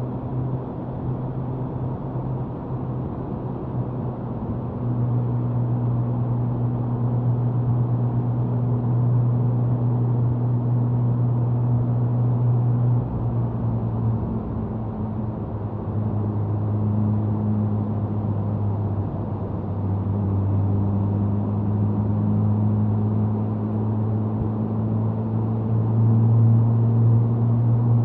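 Suzuki Hayabusa's inline-four exhaust droning at highway cruising speed, recorded close to the tail. The note steadies, dips briefly about halfway through, then climbs and grows louder again near the end as the throttle is rolled back on.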